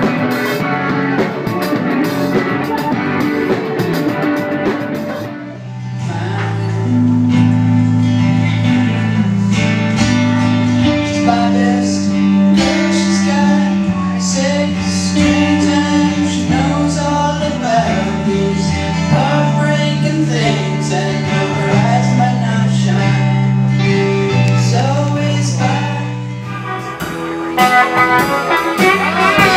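Live band music with guitar, bass and singing. It breaks off about five seconds in as another song starts, and changes again near the end.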